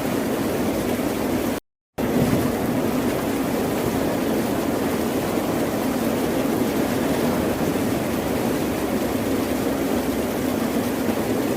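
Steady, unbroken rush of ocean surf, cutting out to dead silence for a split second about a second and a half in before resuming.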